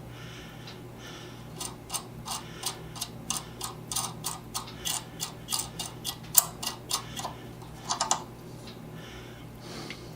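A run of sharp metallic ticks, about three a second for some six seconds, then a couple more a little later, from small steel hardware being worked by hand at a bench, over a steady electrical hum.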